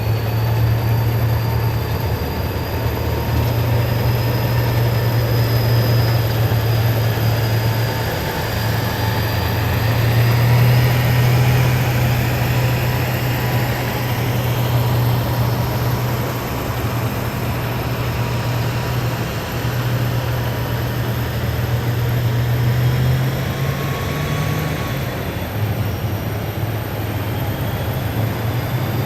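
Column of heavy military vehicles driving past, their engines making a loud steady low drone that swells and eases as each vehicle goes by, with whining tones gliding up and down above it.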